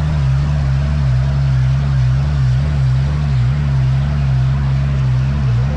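Dune buggy engine running steadily, a loud low note that wavers about twice a second.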